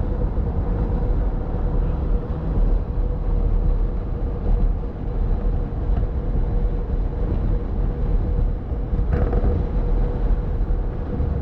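Road noise inside a moving car: a steady low rumble of tyres and engine with a faint, even hum running through it.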